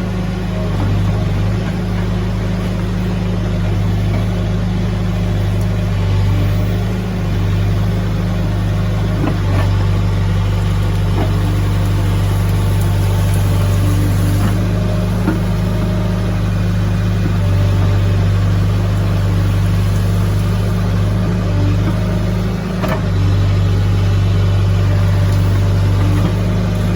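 Heavy machine's diesel engine running steadily with a deep, constant hum that shifts a little in level a few times, with a couple of faint knocks.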